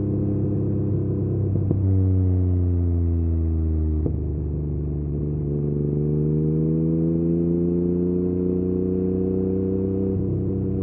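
Yamaha MT-09's three-cylinder engine through an Akrapovic exhaust at light throttle. Its pitch drops for a couple of seconds as the bike slows, breaks briefly about four seconds in, then climbs slowly and steadily as the bike gently accelerates.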